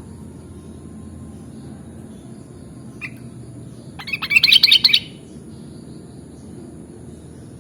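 Sooty-headed bulbul (kutilang) calling: one short note about three seconds in, then a quick run of loud chirps lasting about a second. A steady low hum and a thin high hiss run underneath.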